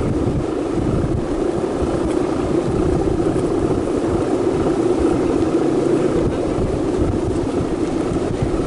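Strong wind blowing over the microphone: a steady rushing with irregular low buffeting.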